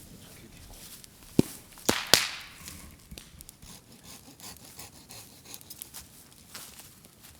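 Bamboo burning in a bonfire: three sharp pops close together about one and a half to two seconds in, then lighter, irregular crackling. The pops are the bamboo bursting as the moisture inside it heats and expands.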